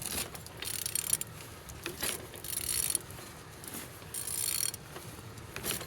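PSA 1.6 HDi DV6C (9HR) diesel engine being turned over by hand at the crankshaft, in about five uneven strokes of clicking, ratcheting noise; the engine turns freely.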